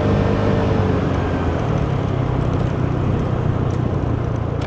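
Piaggio Liberty 150 scooter's single-cylinder four-stroke engine and CVT transmission running at a steady cruise, fitted with a new Malossi variator kit and drive belt, under a haze of wind and road noise. The engine note holds steady with no changes in speed.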